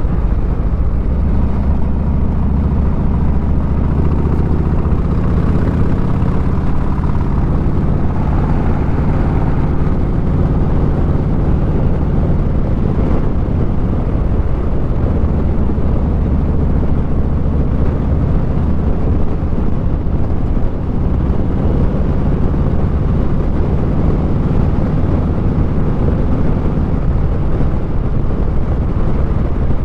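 Motorcycle engine running steadily at cruising speed, with heavy wind rush over the microphone.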